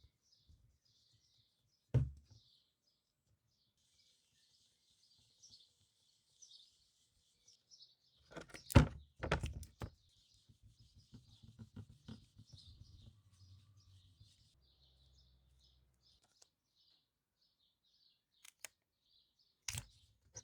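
Birds chirping faintly and steadily in the background, broken by a few sharp knocks and clatters. The loudest cluster of knocks comes about eight to ten seconds in and is followed by a few seconds of low rumbling.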